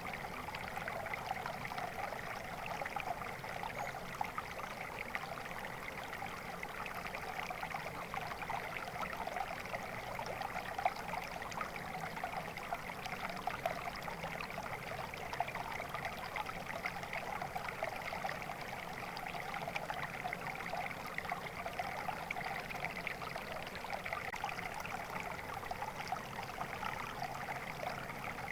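Water flowing and trickling in a stream, a steady burble.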